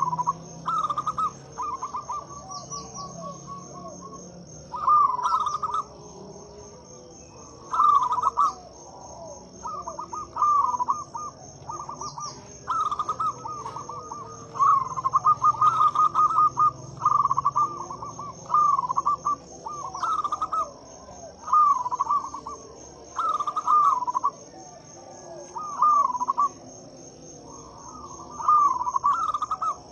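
Zebra dove (perkutut) cooing: short trilled phrases repeated every second or two, one after another. An insect keeps up a steady high pulsing trill underneath.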